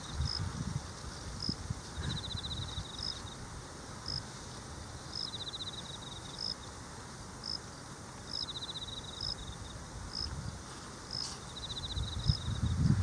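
Insects calling in a steady rhythm: one gives a short high chirp about every two-thirds of a second, another a pulsed trill about a second long roughly every two seconds. Low rustling underneath grows louder near the end.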